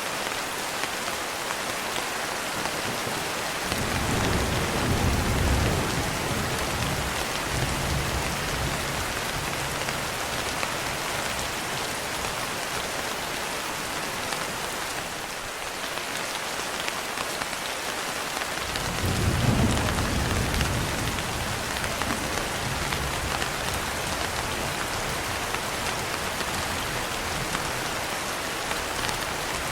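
Steady rain falling, with two low rolls of thunder: one beginning about four seconds in and a louder one a little past halfway, each dying away slowly.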